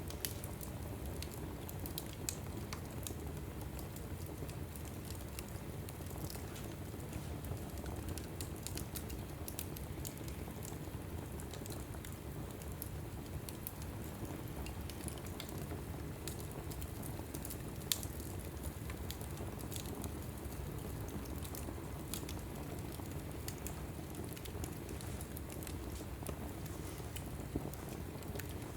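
Log fire burning in a fireplace, crackling with frequent small sharp pops over a steady low rush of flame, and one louder pop about 18 seconds in.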